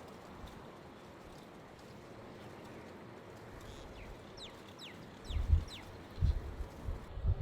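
A small bird gives a quick series of about five short chirps, each falling in pitch, over a faint steady background hum. From about two-thirds of the way through, loud irregular low thumps come in and become the loudest sound.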